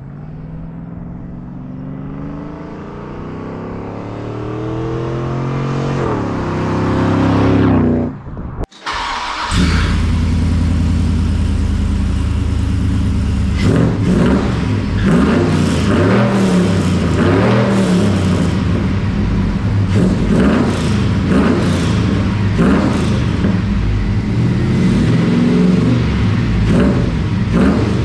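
6.0-litre V8 of a Chevrolet Silverado through long-tube headers and a rear-exit stainless exhaust. It accelerates with a steadily rising pitch, cuts out briefly about eight and a half seconds in, then runs loud with the pitch rising and falling again and again.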